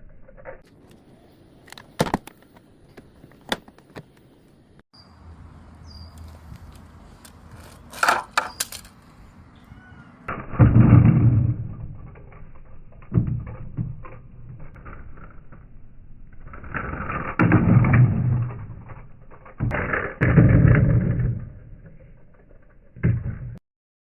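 Toy monster truck running over a 3D-printed plastic ramp: scattered sharp plastic clicks and knocks, then several louder rolling rumbles of a second or two each.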